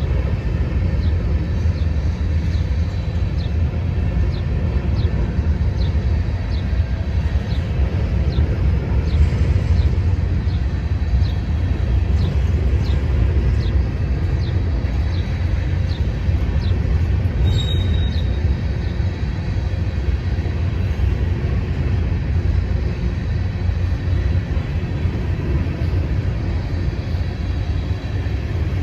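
Freight train rolling past with a steady low rumble. A regular light ticking, about one and a half a second, runs through the first half, and a brief high chirp sounds a little past the middle.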